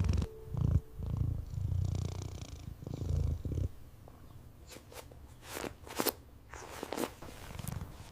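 Cat purring in low, rhythmic pulses that fade out after about three and a half seconds, followed by a few sharp clicks.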